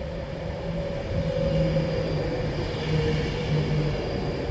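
Avanti West Coast Class 390 Pendolino electric train running in along the platform, its carriages rumbling past. Over the rumble runs a steady whine that drops slightly in pitch.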